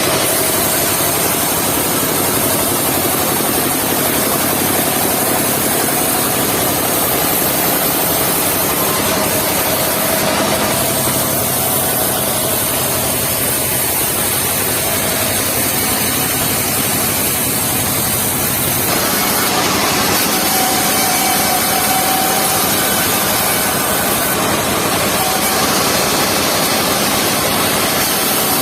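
Mobile circular-saw sawmill running, its engine and spinning blade making a loud, steady drone. The sound changes character about a third of the way in and again about two-thirds of the way in.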